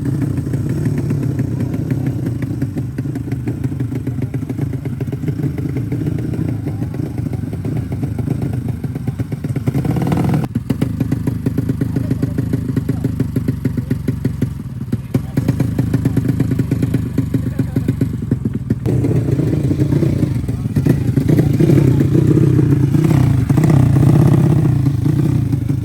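Drag-race motorcycle engines running loud and rough with uneven revving. The revs swell about ten seconds in and again during the last several seconds.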